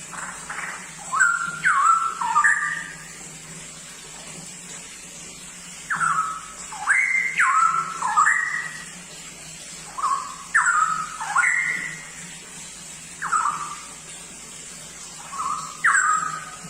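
Straw-headed bulbul (cucak rowo) singing: loud phrases of short, rich, falling whistled notes, in about five bursts with pauses of a second or more between them. A faint steady hum runs underneath.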